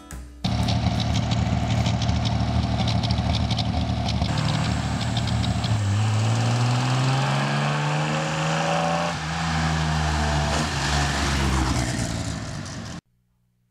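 Studebaker flathead straight-six in a 1928 Ford roadster pickup hot rod running under load and accelerating, its pitch climbing steadily for a few seconds, falling back, then climbing again. The sound cuts off abruptly near the end.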